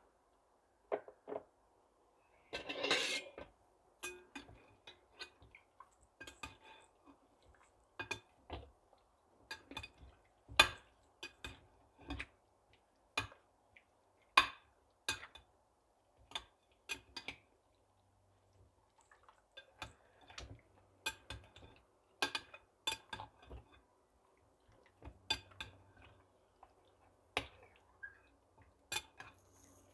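Spoons and bowls clinking and tapping irregularly as spices are added to chicken and mixed into a marinade, with a brief scrape about three seconds in.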